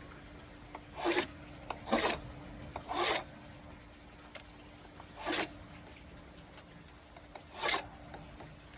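Fiberglass cloth being cut into pieces: five short rasping cuts, irregularly spaced one to two seconds apart, over a faint steady hum.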